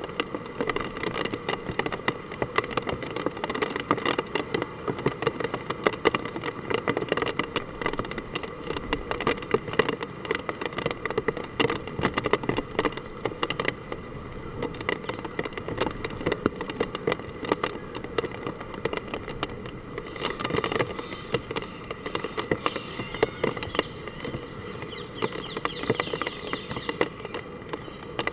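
Hard typhoon rain falling, a dense, steady crackle of drops striking hard surfaces.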